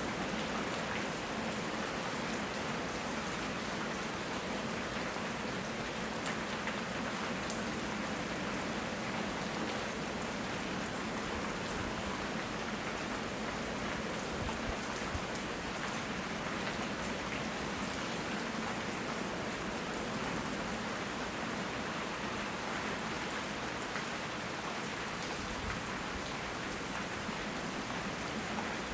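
Steady rain falling: an even hiss of rain on surfaces, with a few sharper drop ticks here and there.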